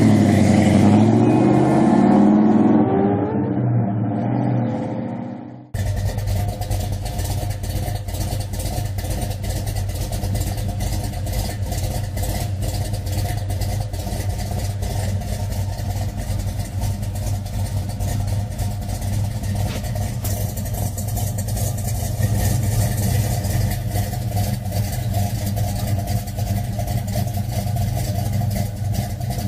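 Muscle car engine revving, its pitch rising and falling as it fades away. About six seconds in, a sudden cut to an engine running steadily at idle with an even, low pulse.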